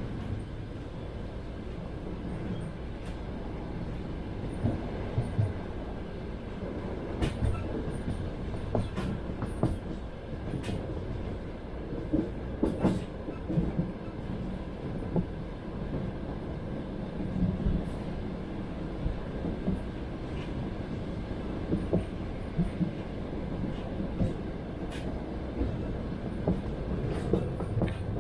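Passenger train running on the line, heard from inside the carriage: a steady low rumble with the wheels knocking over rail joints, the knocks coming in irregular pairs and clusters.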